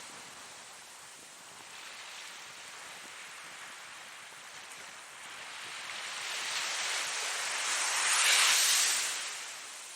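Ocean waves washing on the shore. After a quieter stretch of surf, a wave builds from about halfway through, breaks loudest near the end, then falls away.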